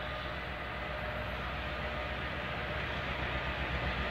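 An approaching train's rumble, growing slowly louder.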